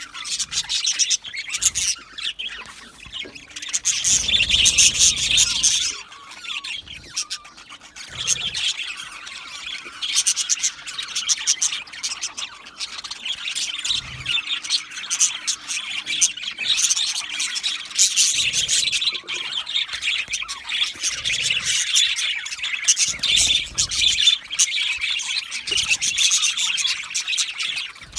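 Budgerigars chirping and chattering nonstop in rapid, overlapping high squeaks and warbles, with squawks mixed in. The chatter gets louder for a couple of seconds about four seconds in.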